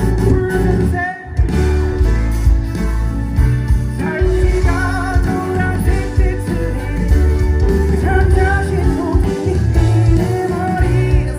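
Live pop-rock band playing loudly, with a male lead voice singing over electric guitar, heavy bass and drums; the band breaks off briefly about a second in, then comes back.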